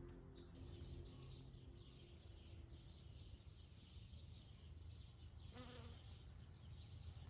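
Faint insects buzzing and chirring, a dense high-pitched texture of rapid short strokes. Soft music fades out over the first few seconds, and there is a brief louder sound about five and a half seconds in.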